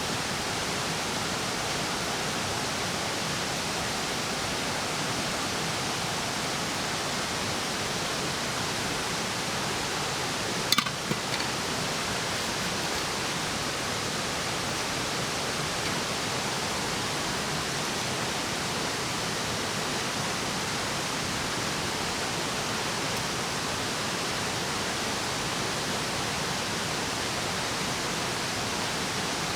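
Steady, even rushing noise, with a brief sharp knock and a couple of smaller clicks about eleven seconds in.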